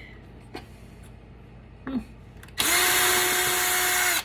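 Power drill spinning at a steady speed for about a second and a half, starting and stopping abruptly, after a couple of light clicks.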